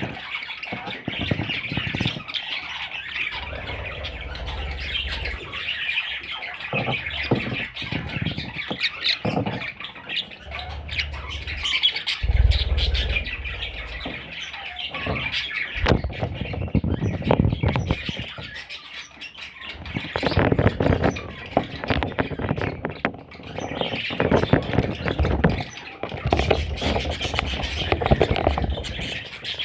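A flock of pet budgerigars chattering and squawking continuously, with low rumbles now and then.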